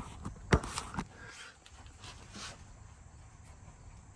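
Three sharp metal clicks in the first second, the loudest about half a second in, as a crank pulley locking tool is slid on and off the harmonic balancer; faint handling noise follows.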